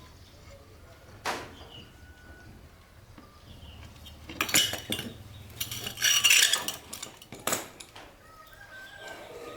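Metal parts and hand tools clanking and clinking together in a few separate knocks, the loudest cluster about six seconds in.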